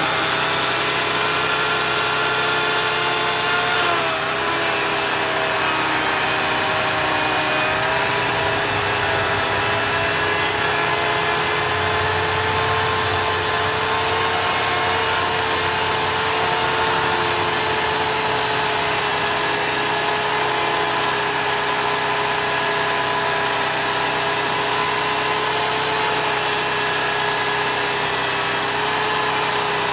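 Oregon CS 1500 15-amp electric chainsaw running steadily under load as it cuts up through a log from underneath. Its motor whine sags slightly in pitch a few times as the chain bites into the wood.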